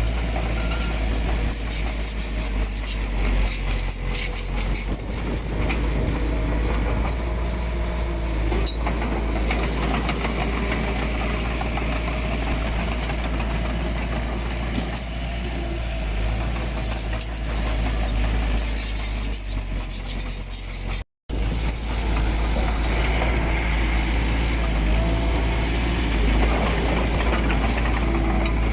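Diesel engine of heavy earthmoving machinery running steadily with a deep rumble, with spells of high-pitched clicking and squeaking over it. The sound drops out for a split second about two-thirds of the way through.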